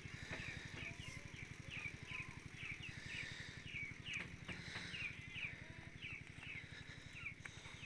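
A bird calling over and over in short, even chirps, about two or three a second, over a low, fast, steady throb.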